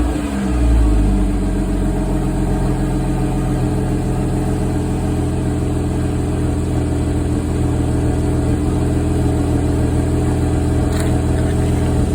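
Porsche 981's 2.7-litre flat-six idling steadily, its revs falling back from a throttle blip in the first second. It is heard through an exhaust with the upper muffler connector slid aside, leaving a quarter-inch gap in the pipe.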